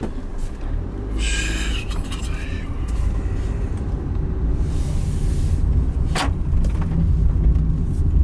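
Steady low rumble of a vehicle on the move, starting abruptly, with a brief hiss about a second in and a single click later on.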